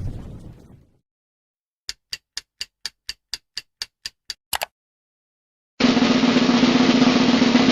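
The tail of a boom fades out in the first second. Then comes a run of about a dozen short drum hits, evenly spaced at about four a second and ending in a quick double hit. After a pause, about six seconds in, a loud steady noisy sound with a low hum starts.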